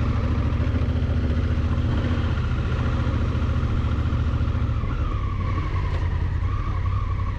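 Honda Africa Twin's parallel-twin engine running at a steady speed on the move, with road and wind noise.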